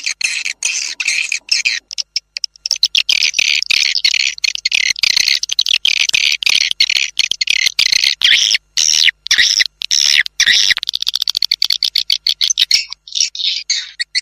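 Swiftlet lure calls: dense, rapid chittering twitter of swiftlets, played to attract the birds into a swiftlet house to nest. There is a short break about two seconds in.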